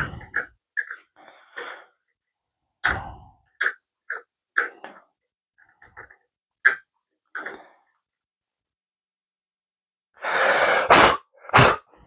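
Hand tools and an aluminum workpiece being handled at a bench during thread tapping: a series of short, irregular clicks and scrapes, then a longer rasping scrape and two sharp knocks near the end.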